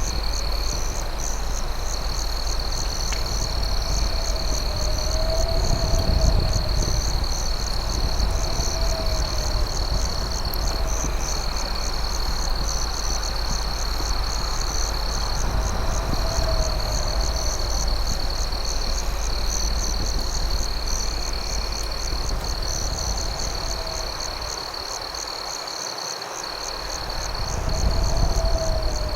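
Crickets trilling steadily in high, unbroken tones, with a lower rising-and-falling call repeating every two to three seconds. Underneath is a steady low rumble that briefly fades a little before the end.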